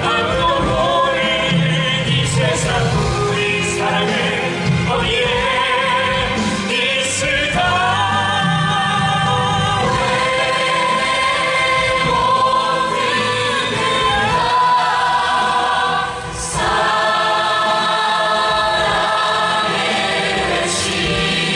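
A stage musical's ensemble singing in chorus over musical accompaniment, with long held notes.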